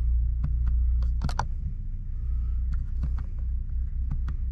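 Steady low rumble inside a Volvo FH540 truck cab, typical of the engine idling, with scattered light clicks on top.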